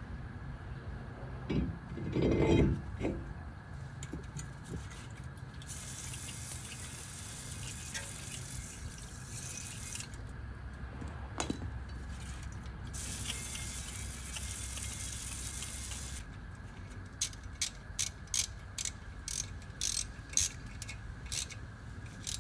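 Work sounds from a truck brake job: a short rattle, then two hissing sprays of a few seconds each, then a string of about ten sharp clicks.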